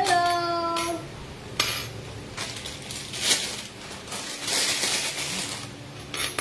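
Kitchen utensils and dishes clinking and knocking as they are handled, in scattered sharp clicks and a short rattling stretch. A short held tone sounds in the first second.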